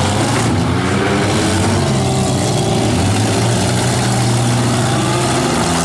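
Several demolition-derby minivan and SUV engines running hard at once, revving and straining as the vans push against each other.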